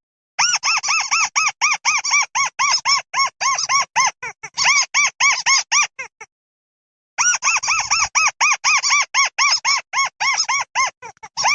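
Mắt xéo bird calling to its flock: a fast run of short, arched, squeaky notes, about four or five a second. The run breaks off for about a second past the middle, then starts again.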